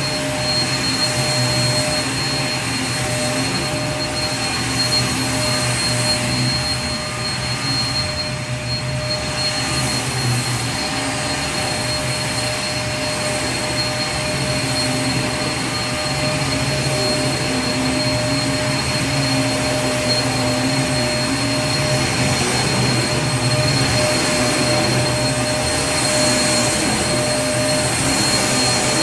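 Vacuum cleaner running steadily: a continuous motor and rushing-air noise with a steady high whine and a low hum, unchanging throughout.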